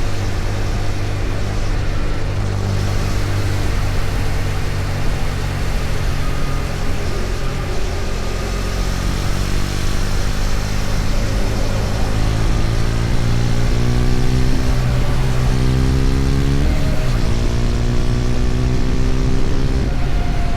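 KTM Duke 250's single-cylinder engine running at road speed with wind and road noise, its note climbing steadily as the bike accelerates through a gear, then dropping at an upshift late on and climbing again.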